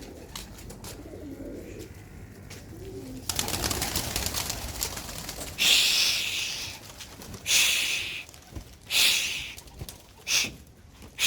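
Domestic pigeons cooing. About three seconds in, a sudden clatter of wingbeats as the flock takes off, followed by several loud hissing swishes about a second and a half apart.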